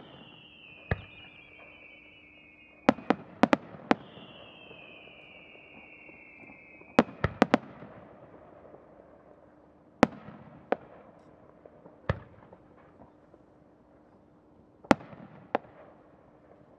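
Fireworks shells bursting in the sky with sharp reports, in quick clusters about three and seven seconds in and singly later. Two long whistles, each falling slightly in pitch, sound through the first seven seconds.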